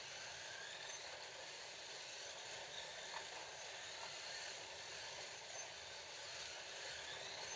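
Scalextric slot cars running on a plastic track: a steady whirring hiss of the small electric motors and the wheels, with faint whines that rise and fall as the cars speed up and slow down.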